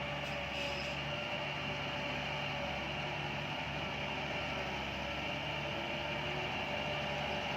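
Heavy construction machinery running steadily: a continuous engine drone with a steady high whine, no starts or stops.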